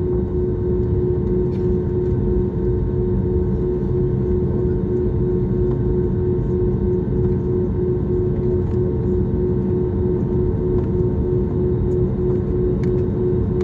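Steady cabin noise of an Airbus airliner in flight: a low, even drone of the jet engines and airflow with a constant humming tone running through it.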